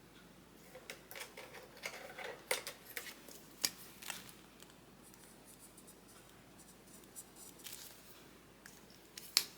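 Quiet paper handling: a few scattered soft rustles and light taps as cash envelopes and savings tracker sheets are moved about.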